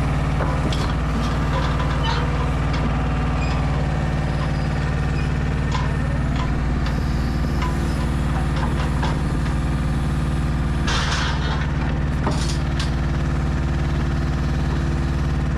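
Heavy truck diesel engine running steadily at idle, with scattered metallic knocks and clanks. A short hiss of released air comes about eleven seconds in, then a briefer one a second later.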